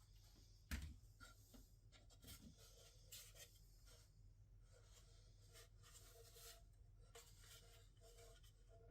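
Faint scratching and rubbing, with one sharp click about a second in.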